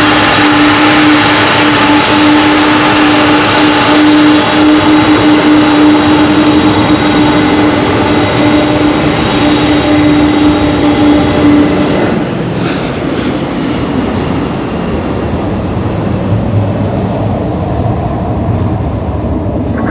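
Jet airliner engines running loud and steady, with a strong droning hum over a dense roar. About twelve seconds in the hum and most of the high-pitched noise cut off abruptly, leaving a quieter low rumble.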